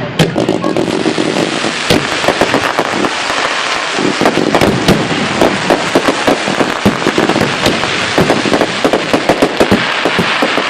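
Fireworks going off in a dense barrage: many sharp bangs over a constant crackling.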